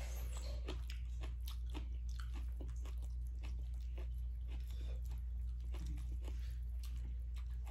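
Close-up chewing and crunching of food, with many small, irregular crackling clicks over a steady low hum.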